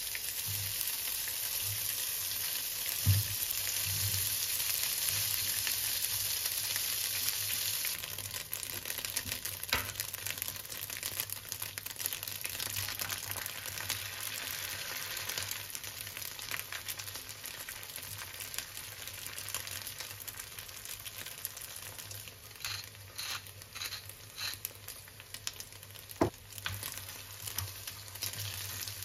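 Diced sausage sizzling in hot oil in a frying pan, loudest for the first several seconds and then softer. A few light knocks sound in the pan, and a wooden spatula stirs the food near the end.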